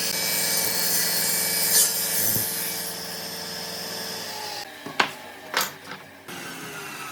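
A power tool running steadily on wood, stopping about two-thirds of the way through, followed by a few sharp knocks.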